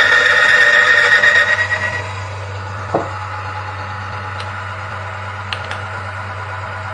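Car engine running loudly with a high-pitched whine, then dropping to a quieter, steady low hum about two seconds in; the drop in engine noise is presented as the effect of an anti-wear additive poured into the oil. A single short knock about three seconds in.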